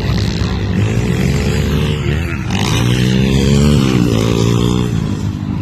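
Pit bike engine revving hard on a motocross track: its pitch climbs under throttle, drops sharply about two seconds in and again near four seconds, then climbs again.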